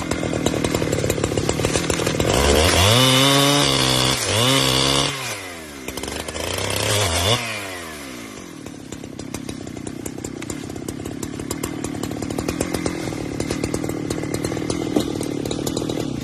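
Two-stroke chainsaw revved up twice, its pitch dipping during the revs, then settling to a steady idle.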